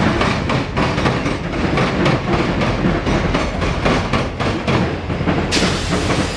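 Freight cars of a CSX local train rolling past in reverse, their wheels clacking rapidly and unevenly over the rail joints over a steady rumble. Near the end a brighter hiss comes in.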